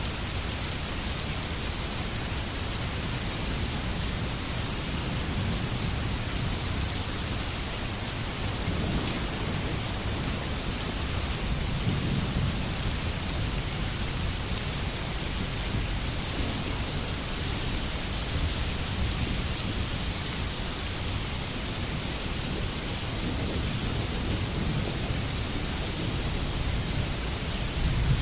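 Steady rain falling on forest trees, an even hiss. A low rumble swells and fades several times underneath.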